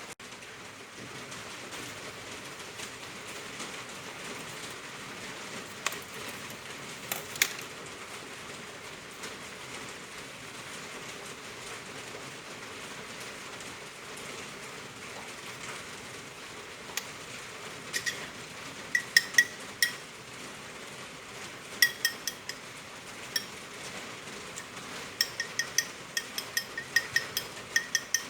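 Heavy rain falling, a steady hiss throughout. In the second half it is joined by sharp, ringing metallic clinks of kitchen utensils, a few at a time at first and coming quickly one after another near the end.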